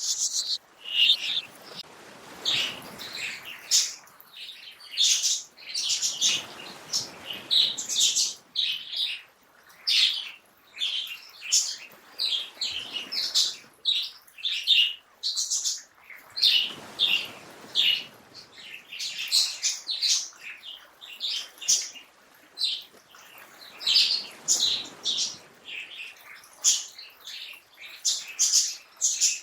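Many small birds chirping and twittering in quick, overlapping calls, with a soft rushing noise that swells and fades every few seconds.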